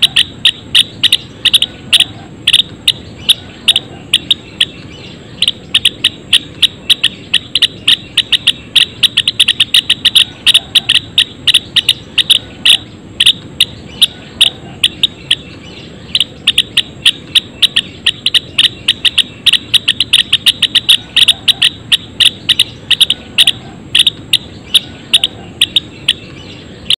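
Java sparrows in a colony cage chirping: a dense, uneven stream of short, sharp chirps, several a second, with brief pauses now and then.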